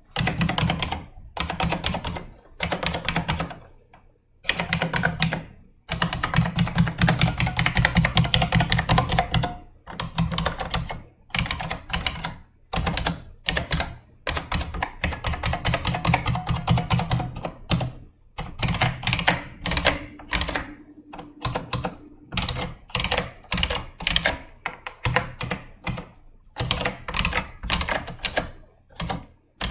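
Typing on an IBM Model M keyboard's buckling-spring keys: fast runs of loud clicky keystrokes broken by short pauses.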